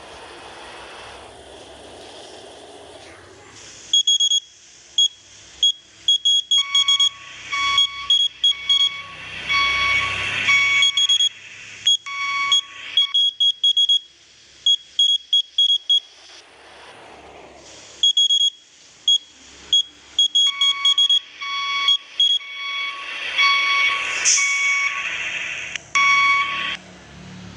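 Electronic alarm-like beeping: runs of quick, high beeps that start a few seconds in, break off for a few seconds midway, then resume and stop shortly before the end.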